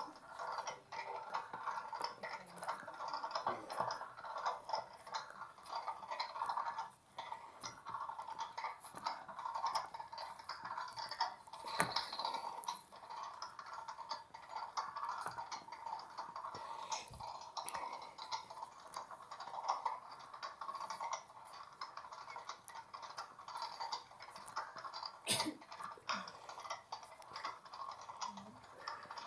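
Miniature washing machine running its wash cycle, its small motor turning the drum with a steady clicking, rattling mechanical sound.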